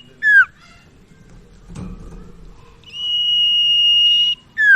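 Common iora (cipau) song: a short, sharply falling whistled note, then near the middle a long, steady, pure whistle held for over a second, followed by another quick downward-slurred note. A faint knock sounds about two seconds in.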